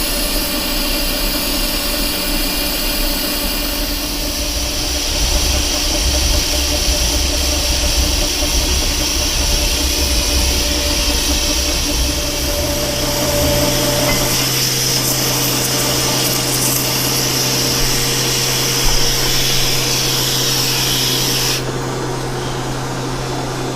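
Metal lathe taking a heavy roughing cut along a steel shaft with an insert tool, the machine running steadily under load, with the steady hiss of the mist coolant sprayer over it. A low hum joins about halfway through, and the high hiss stops suddenly near the end.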